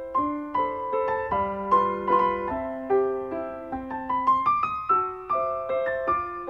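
Background music: a gentle solo piano melody, its notes struck at a moderate pace with a short rising run midway.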